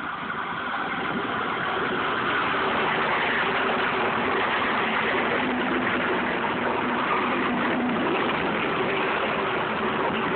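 Passenger train running close by, its sound swelling over the first two seconds and then holding as a steady rumble and drone of wheels and traction.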